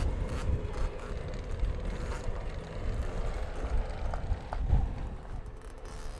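Wind buffeting the microphone in an irregular low rumble, with a faint steady hum underneath.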